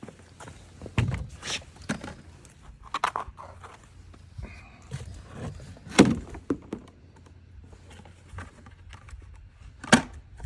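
Scattered knocks, clicks and clatters of tools and parts being handled while working on a car, with a loud thunk about six seconds in and another near the end.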